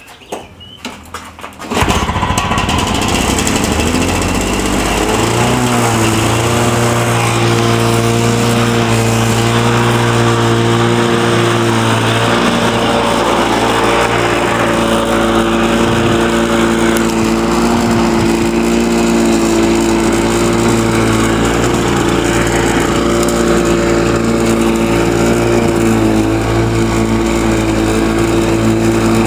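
Two-stroke Lawn-Boy mower engine catching about two seconds in on a cold start, then running steadily at a constant speed; its choke does not close all the way.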